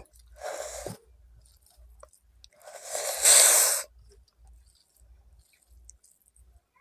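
A person eating rice close to the microphone: a short breathy rush about half a second in, a louder one lasting about a second near the middle, and faint chewing between them.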